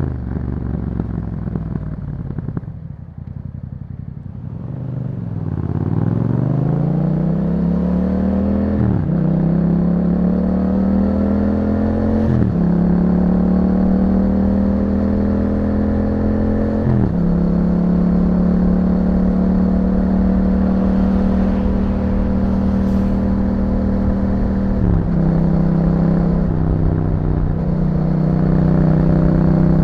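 Yamaha MT-07's parallel-twin engine through an Akrapovic exhaust. It falls to a low, quieter note for a couple of seconds, then accelerates and shifts up four times, each shift a sudden drop in pitch before the revs climb again. After the last shift it settles to a steady run.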